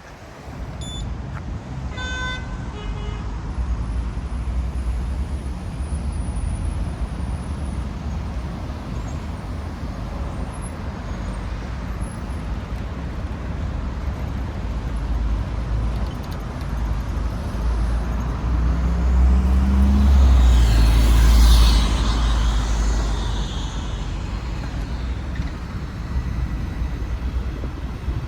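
City street traffic running steadily, with one vehicle passing close and loud about twenty seconds in, then fading. A short beep sounds about two seconds in.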